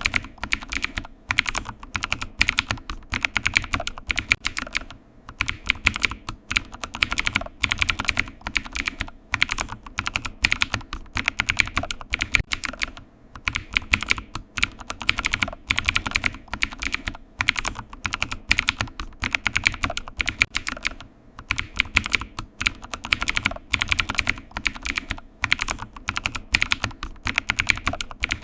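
Computer keyboard typing: rapid, irregular key clicks in runs, broken by short pauses every second or two.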